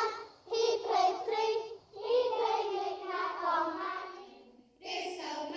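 Children singing together in high voices: held, gliding notes in short phrases, with brief breaks between the phrases.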